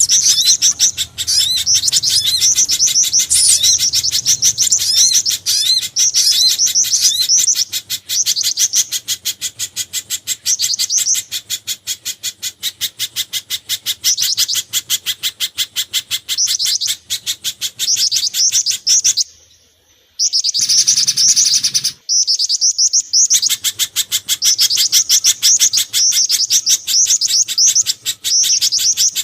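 Bird-lure recording mixing spiderhunter, sogon and jingjing batu (black-winged flycatcher-shrike) calls: long series of fast, high, repeated chirps, with a short break about two-thirds of the way through.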